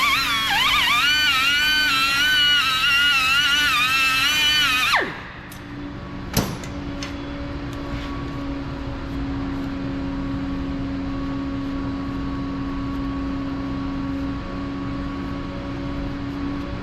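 High-speed rotary power tool spinning up and running for about five seconds, its whine wavering in pitch as it is pressed against the work, then winding down; a second short burst about a second later. A low steady hum carries on afterwards.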